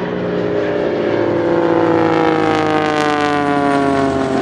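Pitts aerobatic biplane flying past at high speed: its engine and propeller drone falls steadily in pitch as it passes, loudest around the middle.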